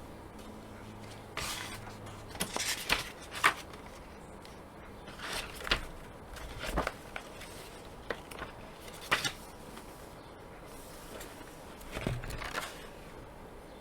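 Calligraphy nib pen scratching across paper in short runs of strokes, four groups of scratches a few seconds apart.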